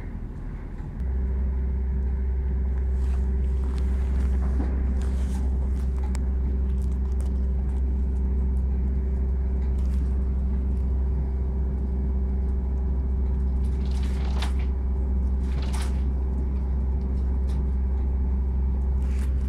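Steady low drone of a Class 170 Turbostar diesel train, heard from inside the carriage while it runs at speed. The drone cuts in sharply about a second in and holds level, with a couple of brief clicks.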